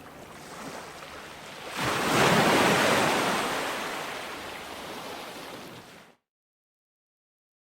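Ocean waves breaking on a shore: one wave crashes about two seconds in and its wash slowly fades away. About six seconds in the sound cuts out completely into dead silence.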